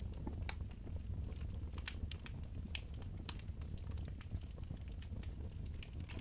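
Wood fire in a fireplace crackling, with irregular sharp pops a few times a second over a steady low rumble.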